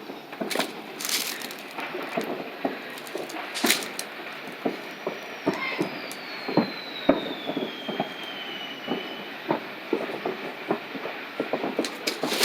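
Many backyard consumer fireworks going off at once all around, popping and crackling over each other at varying distances, with one long falling whistle from about five to nine seconds in.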